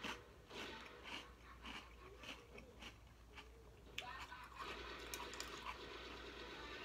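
A person chewing a mouthful of crunchy Cap'n Crunch cereal in oat milk, one crunch roughly every half second for the first three seconds or so. A sharp click comes about four seconds in.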